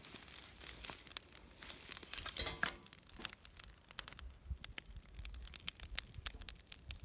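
Scattered short crackles and crinkling rustles, like close handling at a campfire, with a faint low rumble and a brief pitched squeak about two and a half seconds in.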